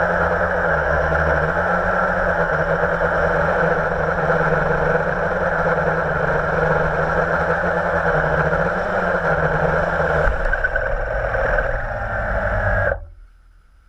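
Blade 350 QX quadcopter's electric motors and propellers buzzing steadily at close range, the pitch wavering slightly as the throttle shifts. The sound cuts off abruptly near the end.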